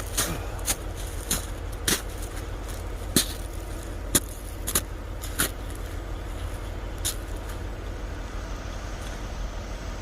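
Footsteps crunching on icy, snowy ground, a step every half second to a second, stopping about seven seconds in, over a steady low rumble.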